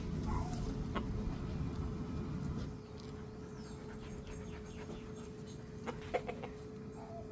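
Chickens clucking now and then while they feed, over a low rumble that fades out about three seconds in, with a couple of sharp taps near the end.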